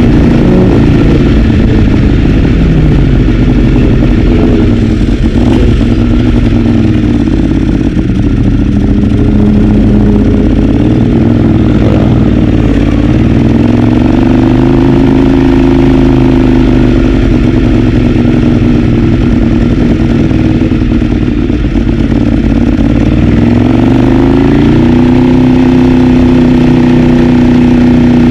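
Ducati 848's L-twin engine at racing speed, heard from onboard the bike: the engine note rises under acceleration and drops away as it slows for corners, several times over.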